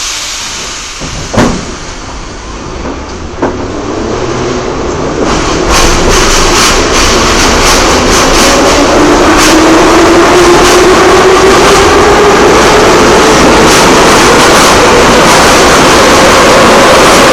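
Metro train pulling away from a station and accelerating, heard from inside the carriage. After a couple of knocks early on, the running noise builds over several seconds, a motor whine rises slowly in pitch, and rail-joint clatter comes through as it reaches speed.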